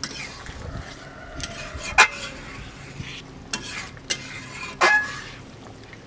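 A metal ladle stirring quail pieces in masala in a frying pan, over a faint sizzle, with several sharp clanks of metal on the pan, the loudest about two seconds in and another near five seconds.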